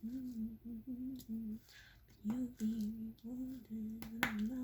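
A woman humming a tune with her mouth closed, in a string of short held notes with a brief pause partway through. A couple of sharp small clicks sound over it, the loudest near the end.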